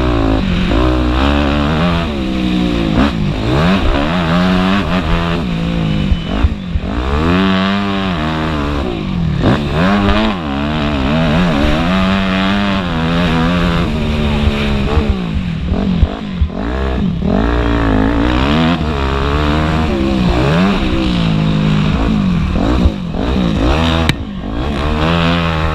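Motocross bike engines revving hard and easing off again and again, the pitch climbing and falling every second or two.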